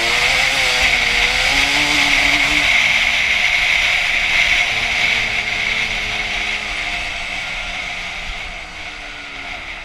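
Two-stroke dirt bike engine running under throttle, its pitch wavering up and down as the revs change. It fades steadily over the second half.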